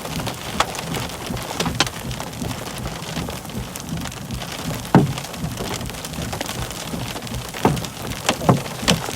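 Steady rain falling, with a handful of louder drops striking close by as sharp taps, the loudest about halfway through and several more near the end.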